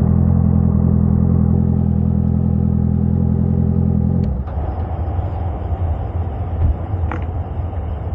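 Yamaha R6 sportbike's inline-four engine idling steadily, then switched off about four seconds in, leaving a low background rumble.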